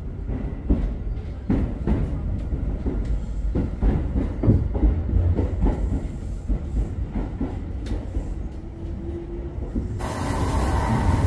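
Metro train running on the rails: a steady low rumble with irregular clacks of the wheels over rail joints. About ten seconds in, the sound changes suddenly to a brighter, hissier rumble.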